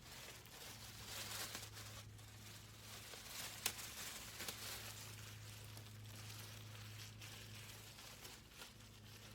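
Thin plastic cap crinkling and rustling as it is pulled on over conditioned hair, with a sharp click about a third of the way in. A low steady hum runs underneath.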